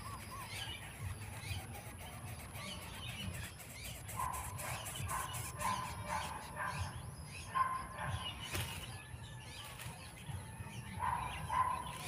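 Short bird calls repeated roughly once a second at a greater coucal's grass nest with nestlings, over soft rustling in the nest.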